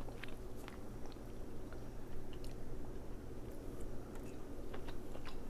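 Close-miked chewing of king crab meat: soft wet mouth sounds with many small scattered clicks.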